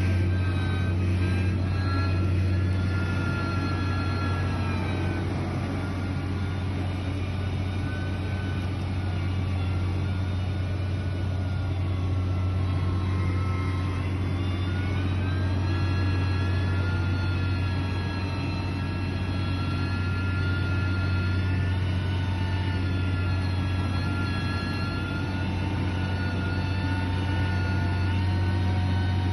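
Heavy diesel construction machine running steadily: a constant low drone with a thin high whine above it that slowly falls and rises, dipping about halfway through and climbing again.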